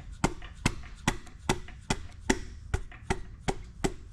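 Piston being tapped down through a ring compressor into a cylinder bore of a 1988 S10's 2.5-litre four-cylinder block: about ten even, sharp taps, roughly two and a half a second. The piston keeps moving with each tap, the sign that the rings have entered the bore cleanly rather than hanging up.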